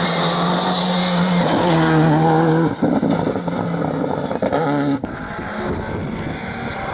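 Rally car engine at high revs under hard acceleration, its pitch climbing and dropping in steps as it shifts up through the gears. About five seconds in the sound cuts abruptly to a rougher, noisier engine rush.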